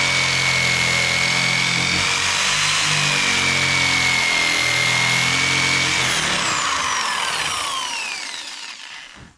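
Electric jigsaw sawing through a timber prop, its motor running with a steady whine. About six seconds in it is switched off and the whine falls away over a few seconds as it spins down, the blade having stuck again near the end of the cut.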